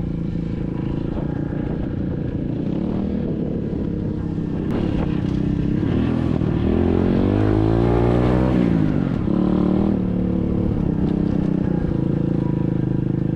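SSR 125cc dirt bike's single-cylinder four-stroke engine running at low revs, revving up about six seconds in with the pitch rising to a peak and dropping back about three seconds later, then running steadily again.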